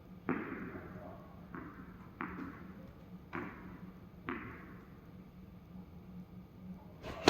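A tennis ball knocking five times at uneven intervals, each knock followed by a short echoing decay.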